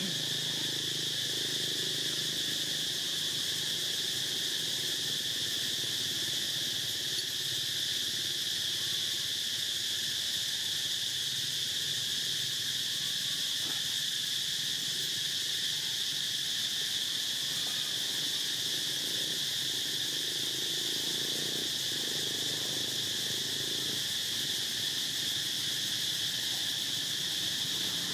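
A steady, unbroken chorus of insects chirring at a high, even pitch, with faint low sounds beneath it.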